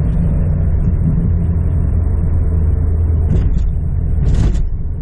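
Cabin noise of a lifted two-wheel-drive 1999 Jeep Cherokee XJ coasting off the throttle: a low rumble from the driveline, the weird squish, squish, squish that comes every time the gas is let off. The owner thinks it is the driveline, and the shop puts it down to the driveshaft angle after a 3.5-inch lift, to be corrected with shims. Two short hissing sounds come near the end.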